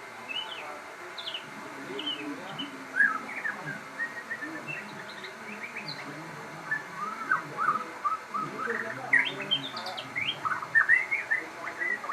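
Crossbred murai songbird singing actively: a rapid run of short chirps and whistled notes, busiest in the second half.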